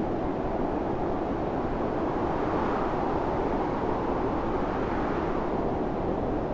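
Storm wind blowing steadily in a deep rushing hiss, swelling slightly about two and a half seconds in.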